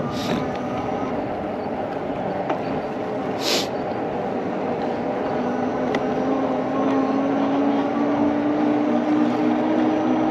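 Electric bike riding along: a steady rush of wind and rolling noise, with a low motor hum that sets in about halfway and grows stronger. Two short hisses come about a third of a second and three and a half seconds in.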